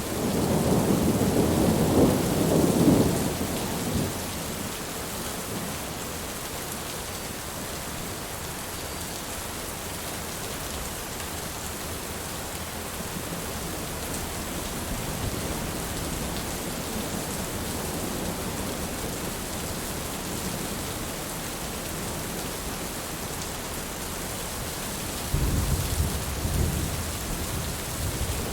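Steady rain falling, with low rolling thunder rumbles in the first few seconds and again near the end.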